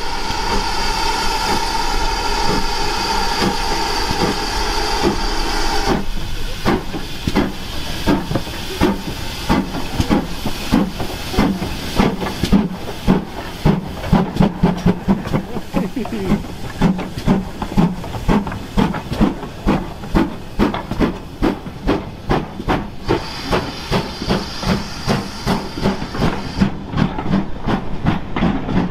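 GWR 5541 Small Prairie steam tank locomotive starting away with four coaches. A steady whistle-like chord sounds for about six seconds and stops, then regular exhaust chuffs follow and gradually quicken as the engine gets the train moving. The start was judged a little slippy.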